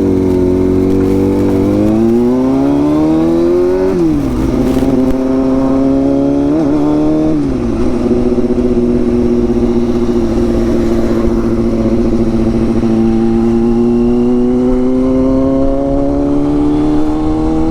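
Sport motorcycle engine under way, pulling up in revs through a gear, then dropping sharply at an upshift about four seconds in. It then cruises at steady revs that slowly climb again near the end.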